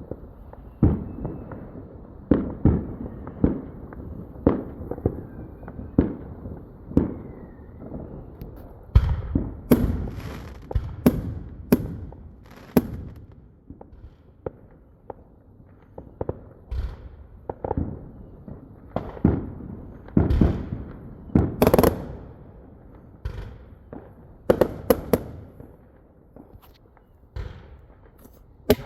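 Neighbourhood aerial fireworks going off in quick, irregular succession: dozens of sharp bangs and booms, some echoing, coming thickest in two flurries.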